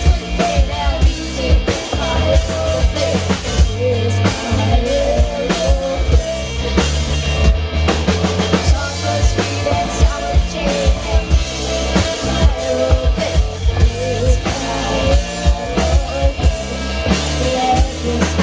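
Rock band playing an instrumental passage: a drum kit keeping a steady beat with kick, snare and rimshots under a bass line, and a melodic line wavering above.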